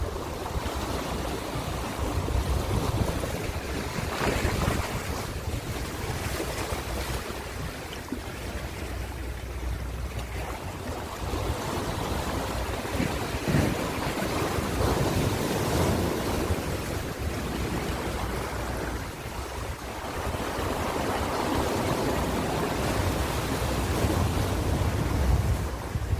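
Ocean waves breaking and washing ashore, a continuous surf noise that swells and eases every few seconds, with a low wind rumble on the microphone.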